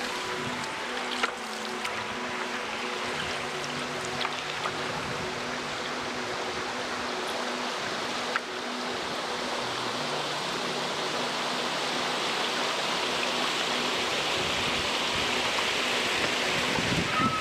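Rushing water of a small river, growing steadily louder toward the end, with a couple of faint knocks. Soft sustained music notes run underneath.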